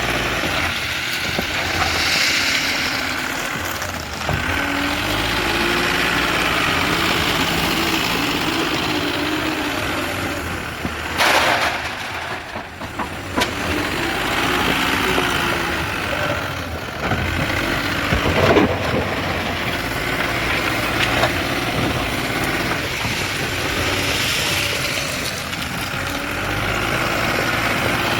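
Mahindra backhoe loader's diesel engine running under load while the machine works, its pitch rising and falling repeatedly. A loud, brief noisy burst comes about eleven seconds in.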